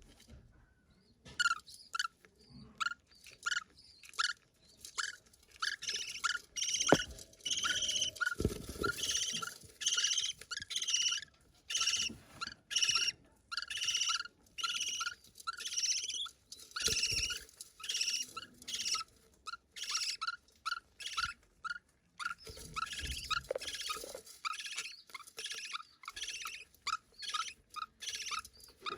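Budgerigar chick begging to be fed: a long run of short, repeated chirping calls, about two to three a second, with a short pause about two-thirds of the way through.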